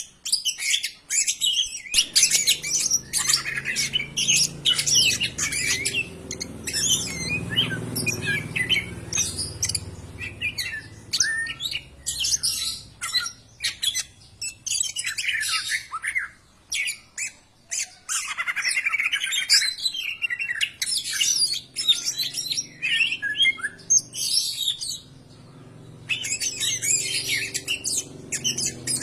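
Cucak ijo (green leafbird) singing a fast, varied run of chattering, whistled and squawky notes almost without pause, breaking off briefly near the end. A faint low hum lies underneath for most of it.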